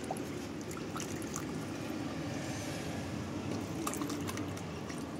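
Liquid pouring and trickling steadily, with a few faint clicks.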